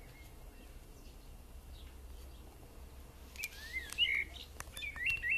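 Bird chirps and short whistled calls that glide up and down, mostly in the second half, mixed with several sharp taps of a hen's beak pecking food in a bowl; the loudest burst comes about four seconds in.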